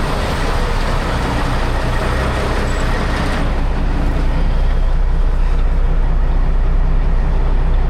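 Heavy diesel engine running steadily with a low drone; a hissing noise over it fades out about three and a half seconds in.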